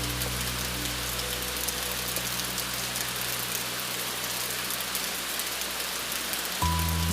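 Steady rain falling, with a soft, low sustained synth pad underneath that fades away through the middle; a new chord comes in abruptly near the end.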